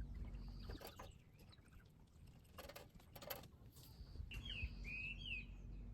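Small birds chirping faintly outdoors, with a cluster of short calls sliding downward in pitch near the end, over a low steady hum and a few soft clicks.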